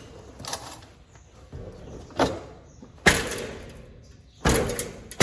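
Four sharp knocks or bangs on the machinery, a second or so apart, each dying away quickly; the third is the loudest.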